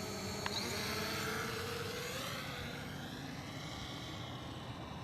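Quadcopter drone's propellers whining higher as it speeds off in sport mode, then fading and dropping in pitch as it flies away.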